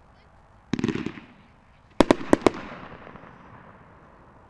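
Dominator Haunted Fish 500-gram repeater cake firing. A quick cluster of crackling pops comes just under a second in. About a second later come four sharp, loud bangs in quick succession, which echo away.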